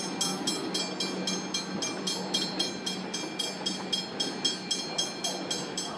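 Comeng electric suburban train moving out of the station, a steady hum and rumble with a rapid, even ticking over it.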